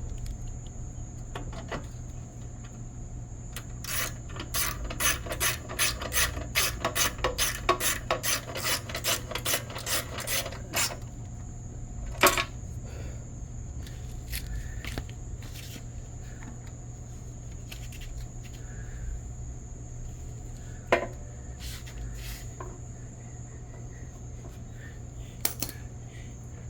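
Ratchet wrench clicking in a quick run of about three or four strokes a second for some seven seconds, tightening a bolt during reassembly of a small engine, followed by three single sharp knocks as parts are handled.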